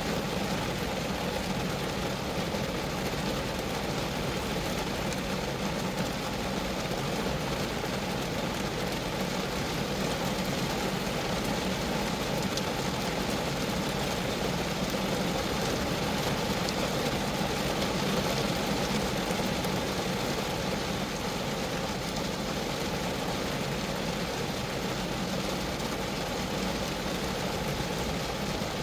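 Rain falling steadily on a Geo Metro, a dense, even patter of drops on the car's body.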